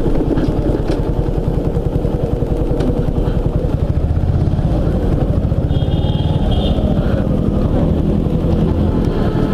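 Suzuki Gixxer's single-cylinder engine running at low speed as the motorcycle rolls into a fuel station, a steady pulsing rumble. A short high-pitched tone sounds about six seconds in.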